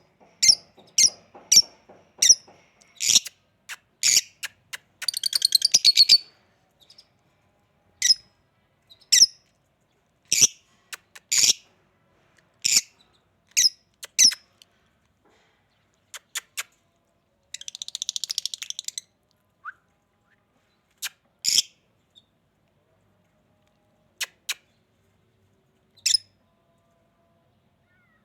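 Pet parrots calling: short, sharp, high chirps one after another with irregular gaps, broken by a rapid chattering trill about five seconds in and another around eighteen seconds. The calls grow sparser in the second half.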